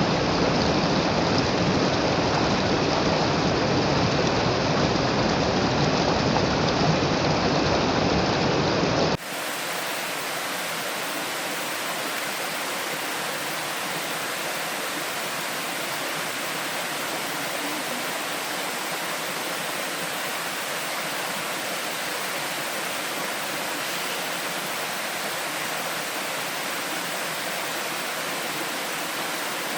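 Steady heavy rain, cutting off abruptly about nine seconds in to a quieter, thinner, steady rushing hiss.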